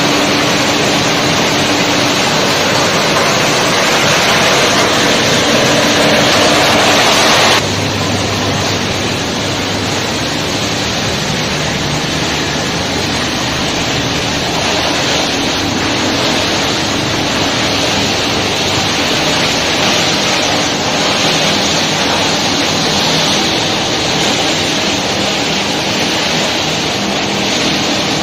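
PET bottle crushing and washing line running: a loud, steady din of machinery and rushing water, with a faint steady hum under it. The sound changes abruptly about seven seconds in and goes on steadily.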